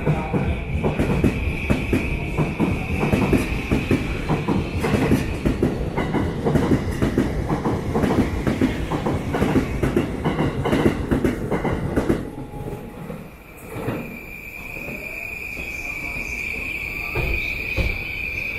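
JR Yamanote Line electric commuter train running alongside the platform: its wheels clatter rapidly over the track while a steady high squeal rings above. About thirteen seconds in the clatter drops away, and a second Yamanote train passes more smoothly with the same high squeal.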